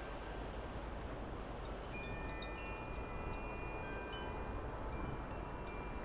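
Outdoor wind chimes ringing, with scattered high, clear tones of different pitches, some fading quickly and one held for about two seconds. Steady background hiss of wind and outdoor noise underneath.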